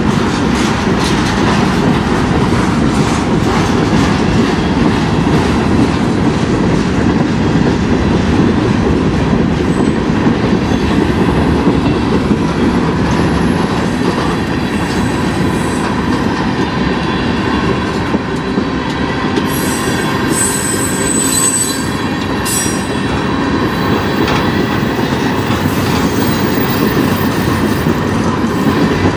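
Freight cars of a mixed freight train rolling past, steel wheels running steadily on the rails. About twenty seconds in, a brief high-pitched squeal comes from the wheels.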